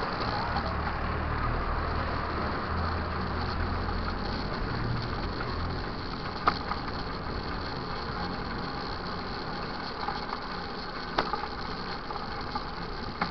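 An engine running steadily with a low hum that fades out about six seconds in, over a constant rushing noise, with a few sharp clicks later on.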